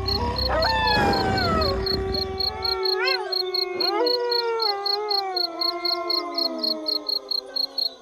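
A pack of wolves howling in chorus: several long howls overlap, most held and sliding slowly down in pitch, with one short rising-and-falling howl about three seconds in. A steady pulsing insect chirp runs underneath, and a low rumble stops about three seconds in.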